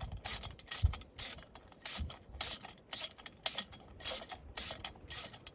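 Ratchet wrench clicking as a fastener on a truck heater blower housing is worked loose by hand: a steady run of short metallic clicks, about two to three a second.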